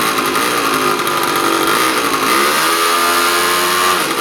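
Small motorbike engine running and being revved. The pitch rises and falls in short blips, then climbs and is held up for over a second before dropping back near the end.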